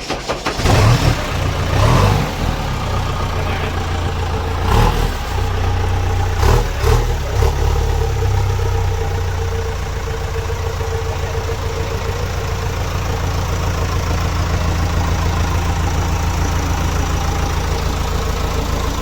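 JCB machine's diesel engine revving in surges with a few clunks over the first eight seconds or so, then settling into a steady idle.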